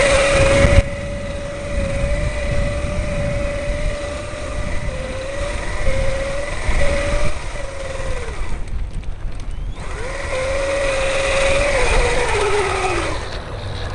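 Electric bike motor whining at a steady pitch under throttle through soft sand, over a low rumble. The whine drops out for about two seconds in the middle, comes back, then falls in pitch near the end as the bike slows.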